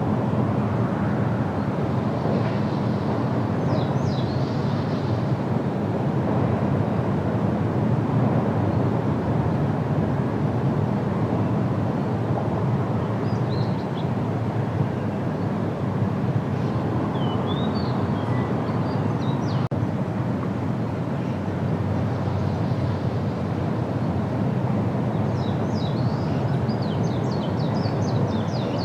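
A steady low rumble throughout, with brief high bird chirps a few times over it and a quick run of chirps near the end.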